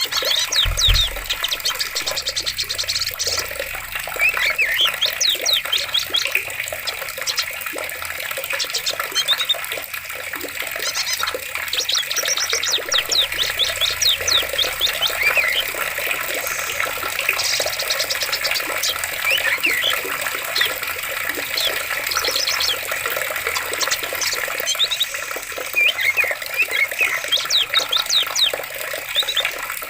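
Steady rushing flowing water, with birds chirping and trilling in quick repeated bursts throughout. A brief low thump comes about a second in.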